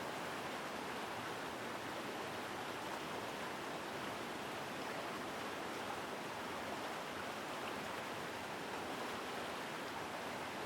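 Mountain stream flowing strongly through a forest, a steady, unbroken rush of water.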